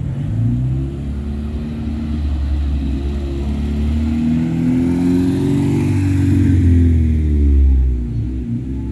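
A car engine running, its pitch rising and falling as it accelerates and eases off, loudest about seven to eight seconds in.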